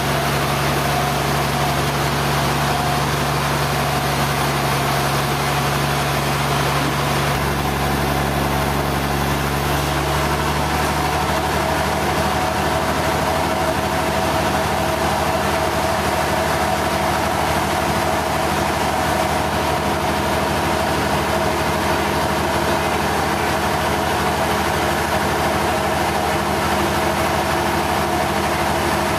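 Sawmill machinery running steadily: a continuous engine hum whose tone shifts about seven seconds in and again about ten seconds in.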